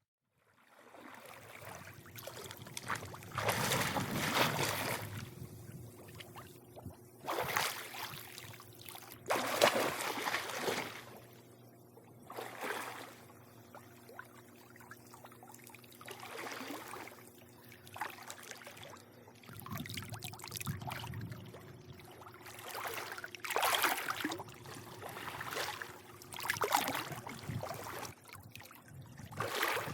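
Swimming pool water lapping and sloshing in irregular swells every few seconds, some surges louder and splashier, over a faint steady low hum.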